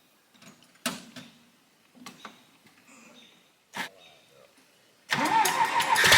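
A couple of faint knocks, then about five seconds in a tractor engine is cranked over and catches, running loudly.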